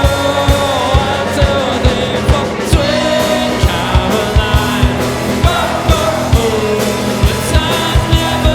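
Live band playing a pop-rock song, with held sung notes over a steady kick-drum beat of about two beats a second.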